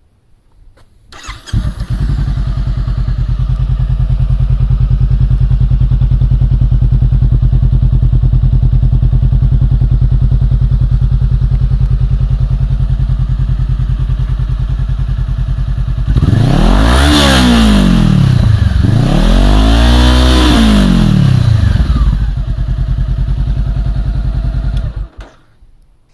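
Honda CBR500R's parallel-twin engine breathing through a Musarri racing silencer with the baffle removed: it starts about a second in and idles, is revved up and back down twice in a row, idles again and is switched off near the end. Deep and quite loud.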